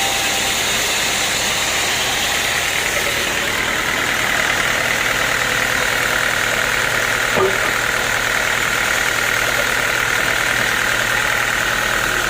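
Sawmill machinery running steadily: a continuous high whine over a low hum, with one short knock about seven seconds in.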